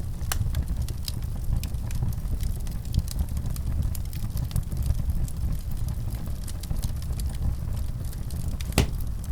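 Wood fire in a fireplace crackling steadily over a low rumble, with many small snaps and one louder pop near the end.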